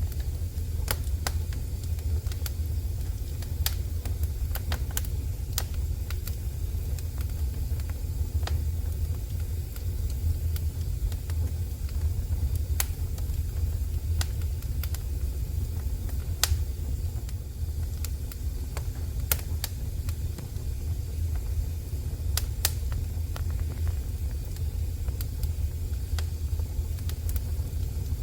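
Wood fire burning in a fireplace: a steady low rumble of the flames with irregular sharp crackles and pops, several a second at times, a few standing out louder.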